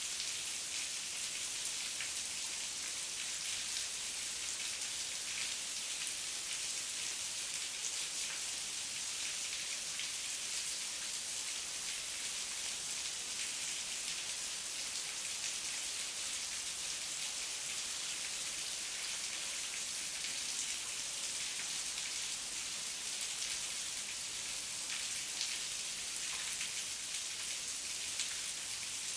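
Steady heavy rain, a dense even hiss of drops with fine patters throughout.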